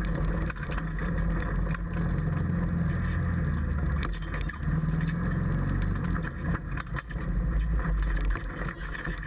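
Off-road rally 4x4's engine running hard as it drives a forest stage. The engine note is steady, with brief dips about four seconds in and again around seven seconds.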